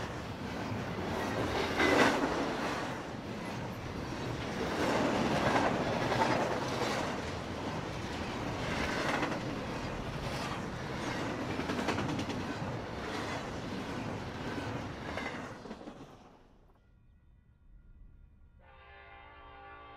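Double-stack intermodal freight train of well cars rolling past close by, a steady rumble and rattle of wheels on rail with repeated clacks. It cuts off about sixteen seconds in, and near the end a distant locomotive air horn sounds a chord.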